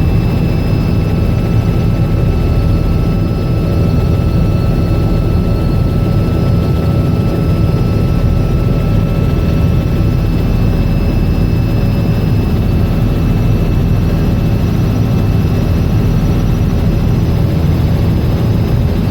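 Robinson R66 helicopter running steadily: a constant low drone of the rotor, with faint steady whining tones from its Rolls-Royce RR300 turboshaft engine.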